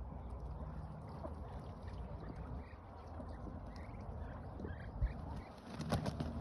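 Muscovy ducks in a poultry yard: scattered faint short calls over a low steady rumble, with a sharp knock about five seconds in and a few clicks near the end.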